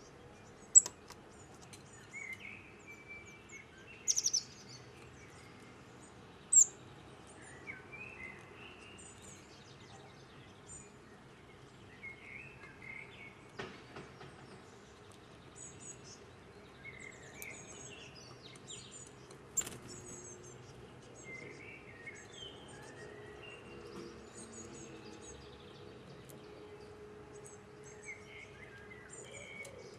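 Small songbirds calling at a feeder: thin, high chirps in quick little groups repeat throughout, with lower warbling calls every few seconds. Three much louder, sharp close calls come in the first seven seconds, and there is a single sharp click around the middle.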